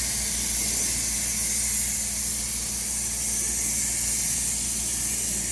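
Aerosol spray-paint can spraying in one long, unbroken hiss as paint is touched up on a truck's body.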